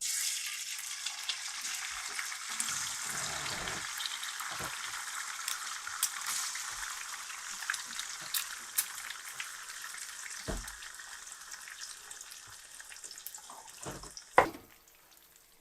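Food sizzling and crackling in a hot frying pan, a steady hiss with small pops that slowly dies down. There is a knock partway through and a sharper, louder knock near the end.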